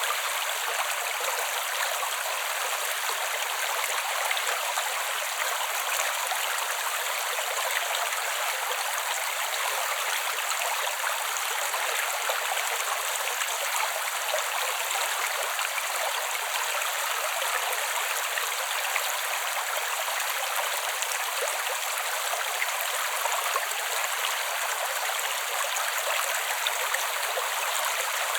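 Small shady creek flowing steadily: an even rush of water with almost no low end.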